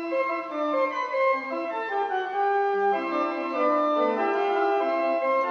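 Restored pipe organ playing a slow piece in several parts, with held notes that overlap and move from one to the next.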